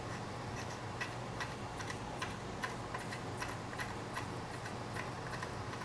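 Ratchet wrench clicking in a quick, slightly uneven series of light clicks, about three to four a second, as a bolt on a BMW N20 timing tool is run in by hand.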